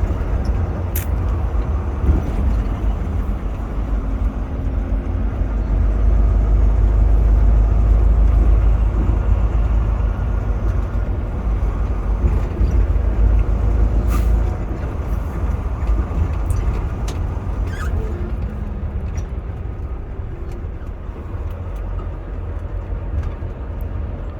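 Semi truck driving on the highway: a steady deep rumble of engine and road noise that swells for several seconds in the middle and then eases off, with a few sharp clicks.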